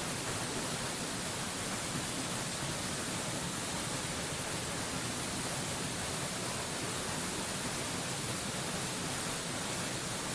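Mountain waterfall rushing in a steady, even roar of falling water, like white noise, with no changes or separate splashes.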